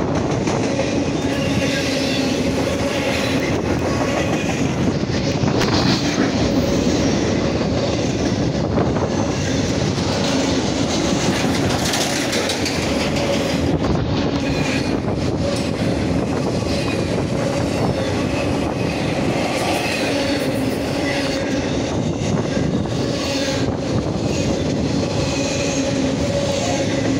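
An intermodal freight train's container and trailer cars rolling past at close range: a steady rolling rumble and clatter of steel wheels on the rails, with a faint high wheel squeal.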